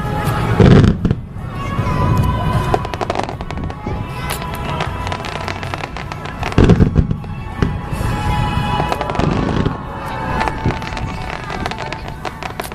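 Fireworks display: two loud booms, about a second in and again about halfway through, with rapid crackling between them, over music playing throughout.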